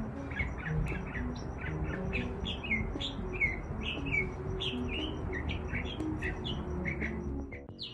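Finches chirping at a feeder: a busy stream of short, mostly falling chirps, several a second, with a brief lull near the end.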